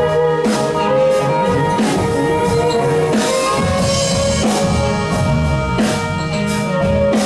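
Live soul-blues band playing an instrumental passage: drum kit keeping the beat over bass, with long held notes from the horns or keyboards above.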